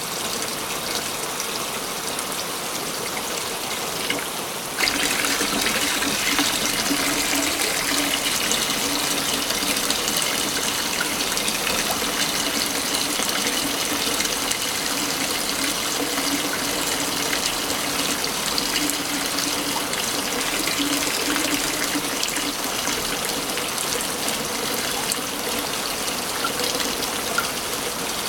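Waterfall: a steady rush of falling water that jumps suddenly louder about five seconds in and then holds even.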